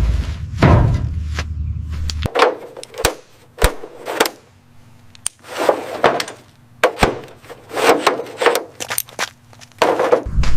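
Irregular knocks, sharp clicks and scraping noises, like hands working on hard objects. A low steady hum underneath cuts off about two seconds in and comes back near the end.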